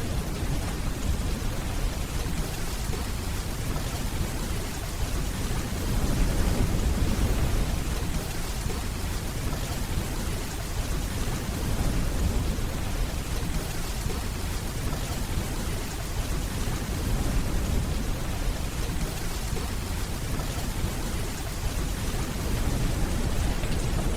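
Steady rainfall with a low, rolling rumble of distant thunder that swells and fades a few times.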